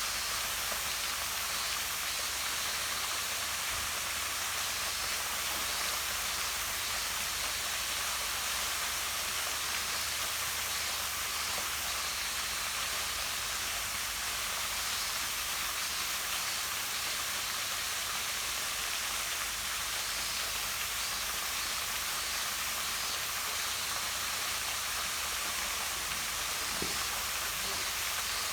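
Small waterfall pouring down a rock face into a pond, a steady, even rush of falling and splashing water.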